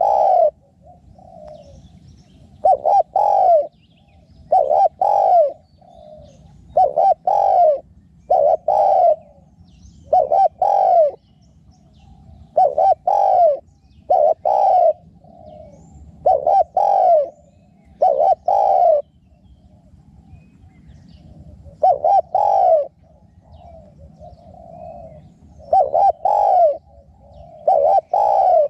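Spotted dove cooing: loud phrases of two or three coos repeating about every two seconds, with fainter cooing in between.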